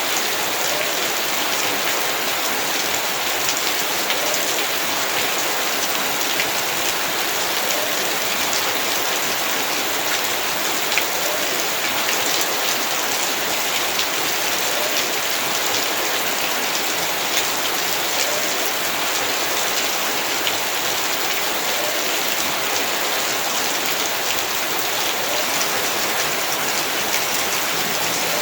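Heavy rain falling steadily, a dense even hiss of drops striking the ground and surfaces, with many small drop ticks.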